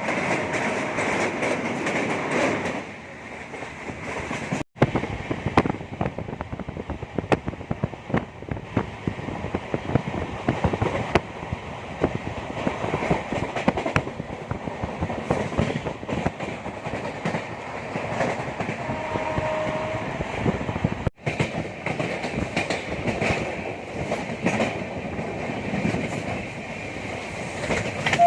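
Running noise heard inside a moving express-train passenger coach: a steady rumble with wheels clattering over the rail joints.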